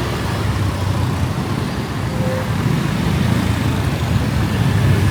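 Street traffic: the steady rumble of vehicle engines and tyres passing on a busy road, growing slightly louder near the end.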